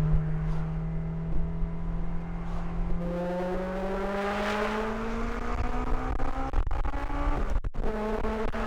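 Honda S2000 inline-four accelerating hard in one gear, its note climbing steadily toward high revs, with a brief break near the end. Wind and road noise come through the open roof.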